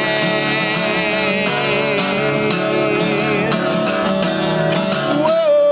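Music: a singer holds the word "Rain" with vibrato over strummed acoustic guitar, and a new long sung note begins near the end.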